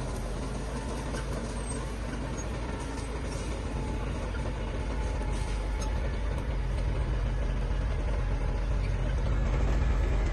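Heavy diesel engine of earthmoving machinery running steadily with a deep hum, getting gradually louder over the stretch.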